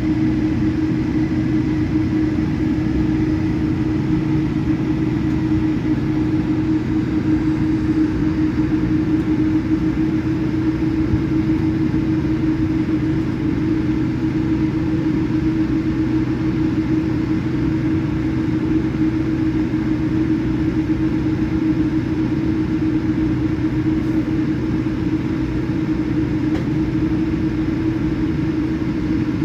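Steady cabin noise inside a Boeing 787-8 Dreamliner: an even drone with a constant low hum.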